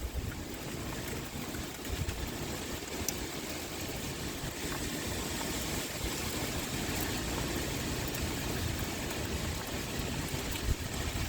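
Rain pouring steadily with wind: an even, unbroken hiss with a low rumble underneath.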